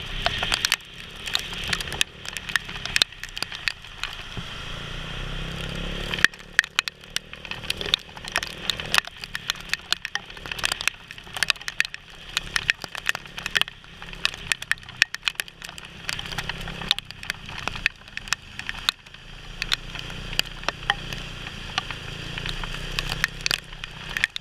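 Raindrops striking the camera and helmet while riding in rain: a dense, irregular patter of sharp clicks and cracks over the low rumble of the moving motorbike.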